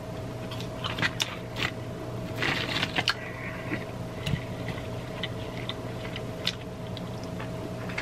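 A person chewing and crunching fried fast food close to the microphone, with scattered sharp crunches and mouth clicks, densest in the first three seconds.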